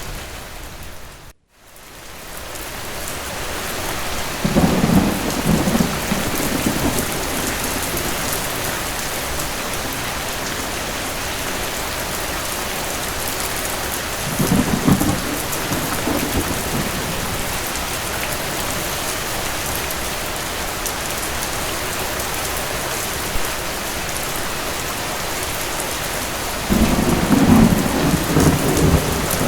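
Steady heavy rain with three rolls of thunder: about four seconds in, near the middle and near the end. About a second in, the sound briefly cuts out and fades back in.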